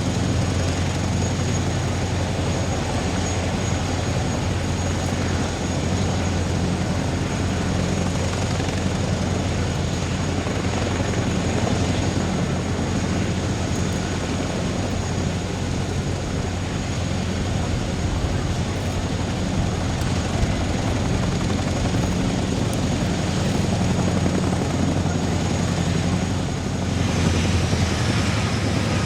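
Starlux Airbus A330-900's Rolls-Royce Trent 7000 jet engines running steadily with a deep roar and a thin high whine, which falls in pitch near the end.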